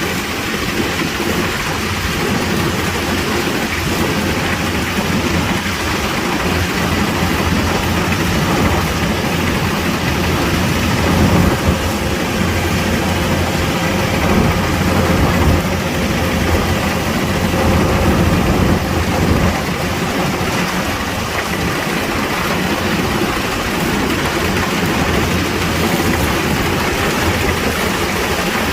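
Kubota DC-105X combine harvester running steadily while harvesting rice: its diesel engine and machinery make a continuous loud hum and rushing noise, swelling slightly a few times midway.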